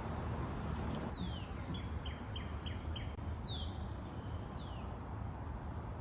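Songbird singing: a falling note, then a quick run of five short notes, then two long falling whistles, over a steady low outdoor rumble.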